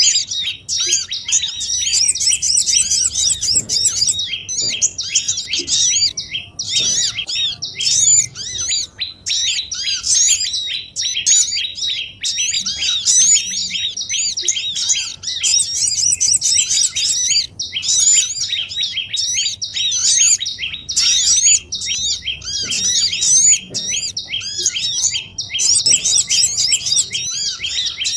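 A noisy chorus of many small songbirds chirping and chattering at once: fast, overlapping high arched calls with a few brief breaks. It is a bird-luring (pikat) call track of small birds such as sogon, korlap and prenjak, made to draw wild birds in.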